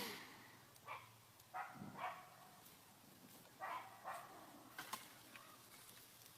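A dog giving about six short, faint calls spread over a few seconds.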